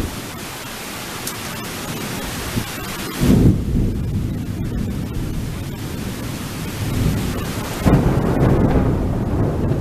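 Thunderstorm: a steady hiss of rain, then about three seconds in a loud, low rumble of thunder breaks in and rolls on, swelling again near the end.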